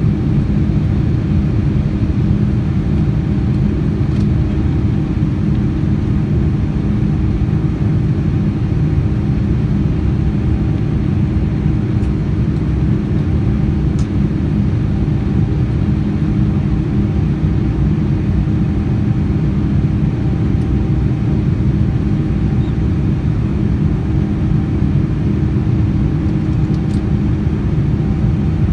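Steady cabin noise inside a Boeing 787-9 Dreamliner: an even low rumble of the engines and airflow with a few faint steady hums, unchanging throughout.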